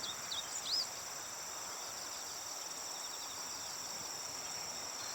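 Steady chorus of crickets trilling in fast even pulses, with three short chirps from a small bird in the first second.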